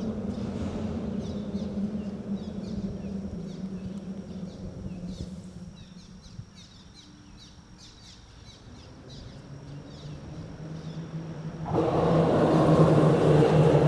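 Passing road traffic: one vehicle's rumble fades away over the first half, then another approaches, growing louder and jumping up sharply near the end. Small birds chirp throughout, over a thin, steady high tone.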